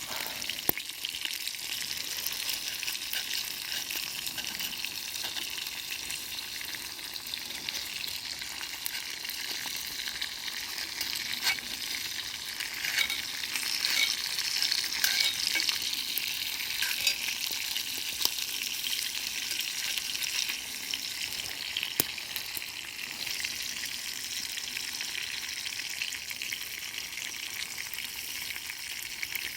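Food frying in a pan, a steady sizzle with scattered sharp pops, swelling a little about halfway through.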